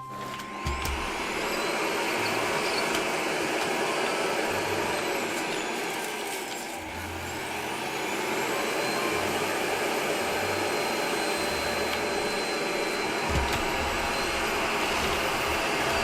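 Vacuum cleaner switched on within the first second and running steadily, its rotating brush driven by a freshly replaced brush-roll motor; the level dips briefly and the pitch falls and rises again around six to seven seconds in.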